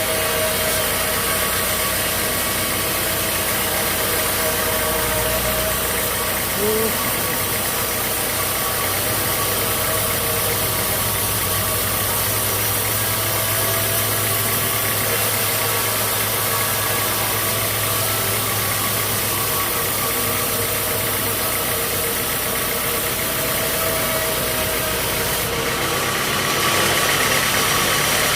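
Sawmill machinery running steadily: a motor hum with a constant hiss, a brief rising squeak about seven seconds in, and a brighter, slightly louder noise from about 26 seconds in.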